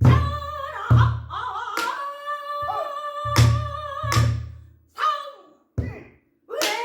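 A pansori singer holding long, wavering sung notes, accompanied by the buk barrel drum. The drum gives several deep thumps on the drumhead and a few sharp clacks of the stick on the drum's wooden frame.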